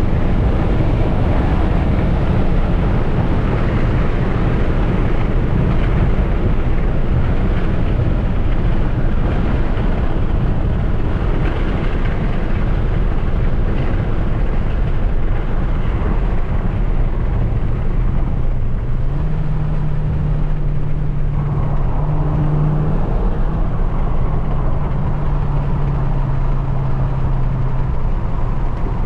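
Dodge Challenger SRT Hellcat Redeye driving, with steady engine and road noise. A low hum comes in about two-thirds of the way through and shifts pitch a couple of times before fading near the end.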